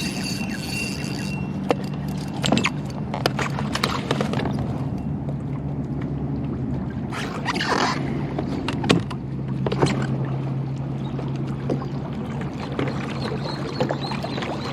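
Scattered knocks and handling sounds on a kayak, with a short noisy burst about halfway through, over a steady low hum.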